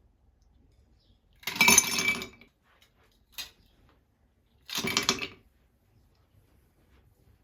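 Hard objects clinking and clattering, in two bursts about three seconds apart with a short click between them.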